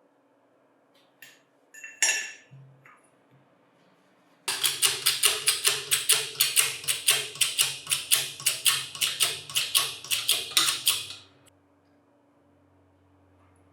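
A few sharp clicks, then a rapid, even run of light metal-on-metal taps, about four to five a second, lasting some seven seconds before stopping.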